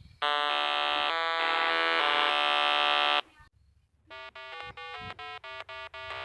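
Electronic buzzer-like sound effect: one steady buzz of about three seconds, then after a short pause a fast run of short electronic beeps, about five a second.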